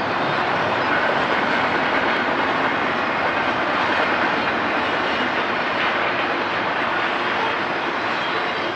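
Intermodal freight train rolling past, a steady noise of steel wheels on rail.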